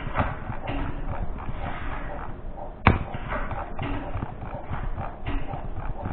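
A playing card slapped down onto the table with one sharp smack about three seconds in, over low background room noise.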